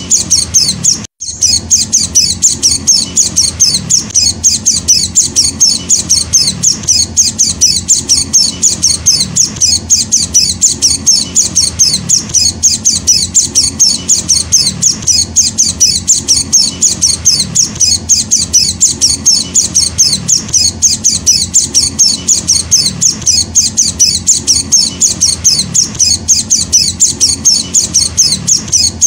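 Young hand-fed white-eye (Zosterops) chicks chirping: a steady run of quick, high calls, several a second, broken only by a very short gap about a second in.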